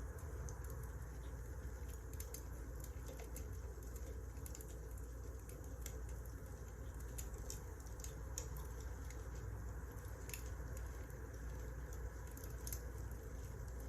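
Burning firewood crackling: irregular sharp pops and snaps over a steady low rumble.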